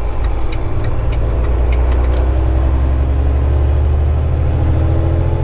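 Volvo 780 semi truck's diesel engine droning steadily as the truck cruises on the highway, with road and cab noise over it and a few faint clicks.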